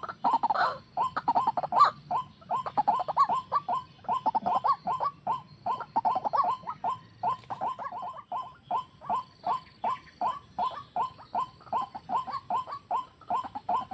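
White-breasted waterhen calling: a long run of short notes repeated about three times a second, fuller and louder in the first couple of seconds.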